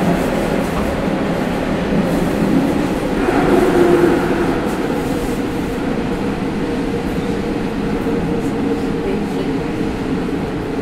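Hanshin 9000 series electric train running through an underground section, heard from inside the car: a steady rumble of wheels and running gear with traction-motor tones. It swells briefly about three to four seconds in.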